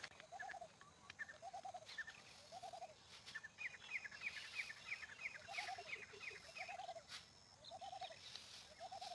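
Faint bird calls: a low, rising-and-falling hooting note repeated about once a second, with a pause in the middle, and a quick run of high chirps from another bird partway through.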